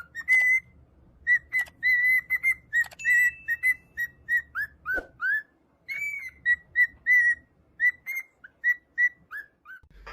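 Parrot whistling: a rapid string of short, clear whistled notes, mostly on one pitch, with several notes sliding downward around the middle and again near the end.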